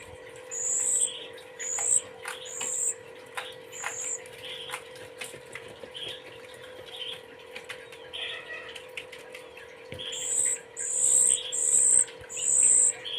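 Young songbird chicks giving repeated short, high-pitched calls, typical begging calls during hand-feeding; the calls come thickest at the start and again from about ten seconds in. A steady low hum runs underneath.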